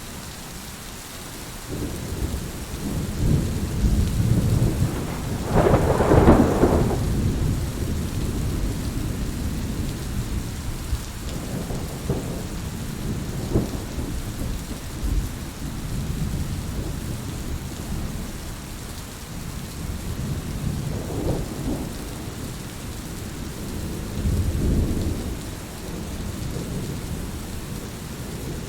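Heavy rain falling steadily, with rumbling thunder: a low rumble builds from about two seconds in, peaks in a louder clap about six seconds in, and fainter rumbles follow later.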